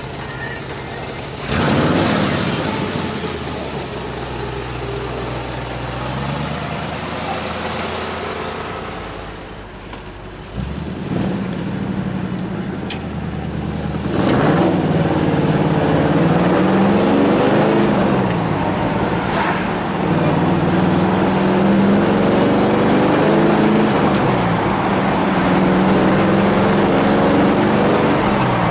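A 1962 Chevrolet Impala Super Sport's engine, with a sharp rev about a second and a half in. From about fourteen seconds on it runs loudly under acceleration, its pitch rising and then dropping several times as the four-speed manual is shifted up through the gears.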